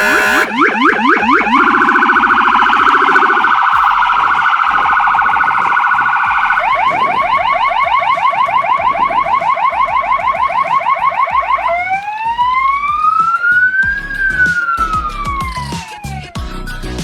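Fire engine's electronic siren cycling through its tones: a fast warble, then a rapid repeating yelp, then about four seconds in which a single slow wail rises and falls. For the first two seconds or so a lower tone sounds beneath the warble.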